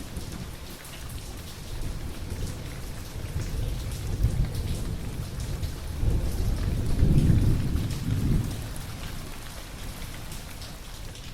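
Steady rain with pattering drops, and a long roll of thunder that builds in the middle, peaks, then fades away.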